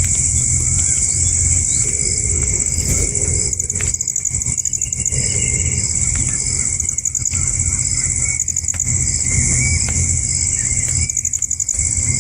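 Outdoor nature ambience: a steady, high-pitched insect-like drone with short chirps repeating through it, over a continuous low rumble.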